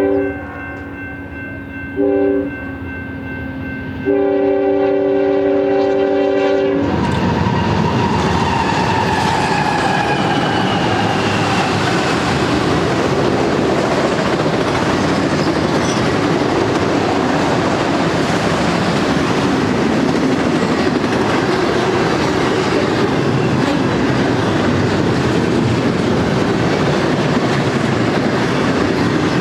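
Union Pacific freight locomotive's multi-chime air horn: the tail of one blast, a short blast about two seconds in, then a long blast, the end of a long-long-short-long grade-crossing signal. About seven seconds in, the horn stops as the locomotive passes close by, and the train's cars roll past with a steady rumble and clickety-clack of wheels over rail joints.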